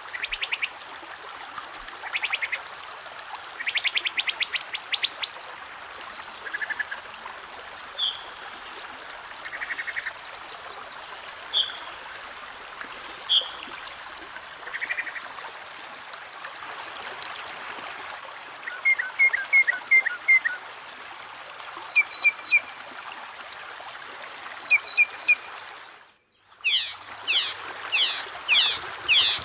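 Water trickling steadily with songbirds calling over it: quick trills and single short notes, then a run of five rapid repeated notes. Near the end the track cuts out for a moment and a different bird's series of falling notes begins.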